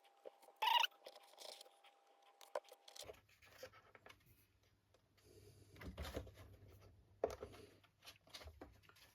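Faint clicks, scrapes and rustles of small model boat kit parts being handled and fitted together by hand, with a louder brief scrape a little under a second in.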